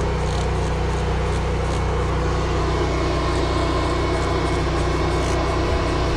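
Pressure washer running steadily, a constant engine drone under the hiss of the water spray.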